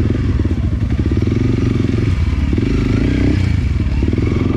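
Enduro dirt bike engine running at low revs, its pitch rising and falling a little as the throttle is worked.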